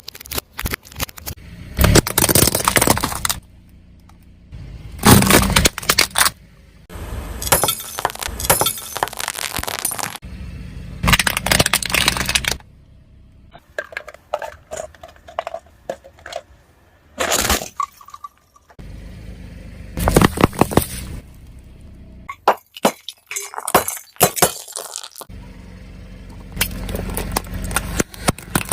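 Brittle objects being crushed under a car tyre: a run of cracking, breaking and glassy clinking, in about ten separate bursts of one to two seconds with short pauses between.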